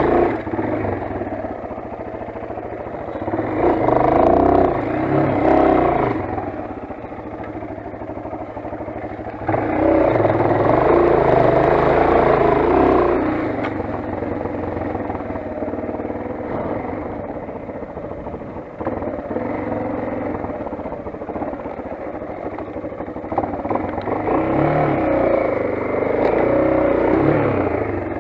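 Motoland XR 250 enduro motorcycle's single-cylinder four-stroke engine running while ridden, the throttle opening in three louder revving surges: about four seconds in, around ten seconds in, and near the end.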